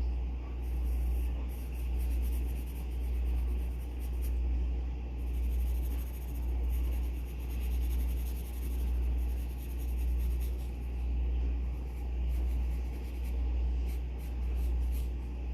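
Pencil scratching on paper in short bursts of strokes, with pauses. Under it, a loud low hum that swells and fades steadily about once every second and a bit.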